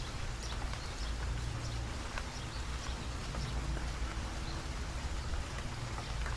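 Light rain falling: a steady hiss with many separate drops ticking close by, over a constant low rumble.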